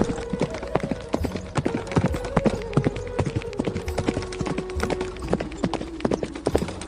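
Horse hooves clip-clopping: a quick, irregular run of sharp clacks.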